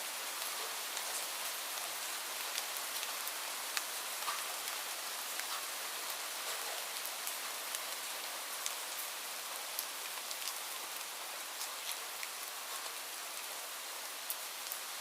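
Steady rain falling, a constant hiss with many separate drops ticking sharply on a surface throughout.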